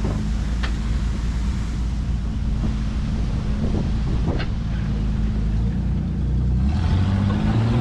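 Pickup truck engine running steadily while driving, revving up near the end.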